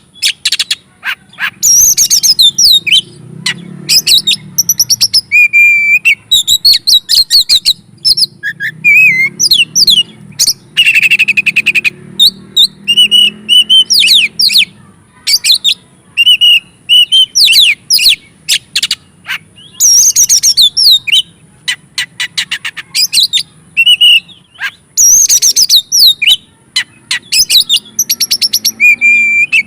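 Oriental magpie-robin (kacer) singing loudly and almost without pause: a stream of varied whistled phrases, fast trills and quick runs of repeated notes. It is the bird's excited, fighting song in full flow.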